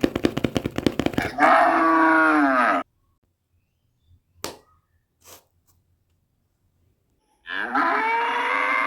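Cattle mooing. A long, wavering moo runs through the first part and falls away about three seconds in. After a quiet gap with a few faint clicks, a second long moo begins near the end.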